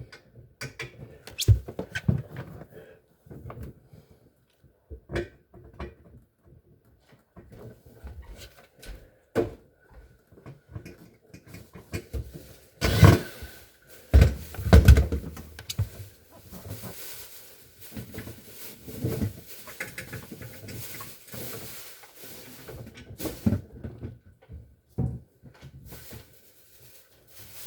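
Irregular knocks, clunks and rattles of hands working on an appliance and its parts, with a louder burst of banging and rattling about thirteen to fifteen seconds in.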